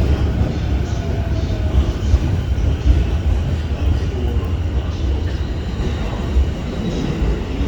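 JR East E231 series electric train pulling out of the platform: a steady low rumble of the moving train, with a faint rising whine in the first two seconds.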